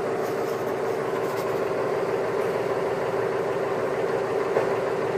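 Semi truck's diesel engine idling with a steady, even hum.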